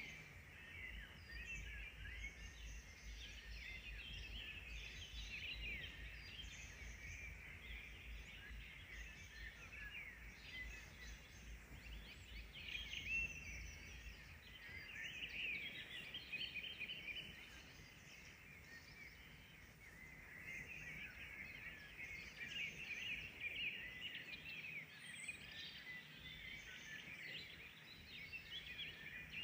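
Songbirds singing, a dense chorus of short overlapping chirps and trills, thinning for a moment past the middle. A low rumble underneath stops about halfway through.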